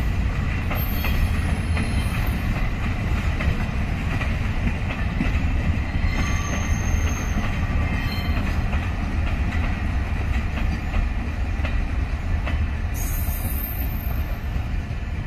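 Freight wagons rolling past on the rails: a steady low rumble of steel wheels on track, with occasional clicks over the rail joints.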